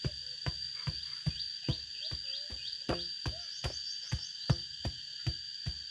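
Evenly spaced sharp knocks, about two and a half a second, over a steady high-pitched insect drone, with a few short chirps in the middle.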